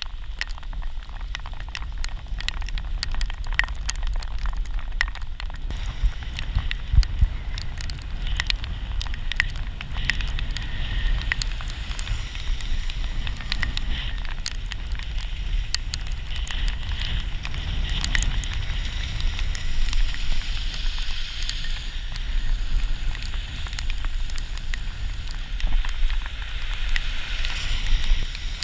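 Rain and raindrops crackling against the bike-mounted action camera while cycling through rain, with a steady hiss of wet road and a low wind rumble on the microphone. The sharp ticks are densest in the first ten seconds, and the hiss grows stronger from about eight seconds in.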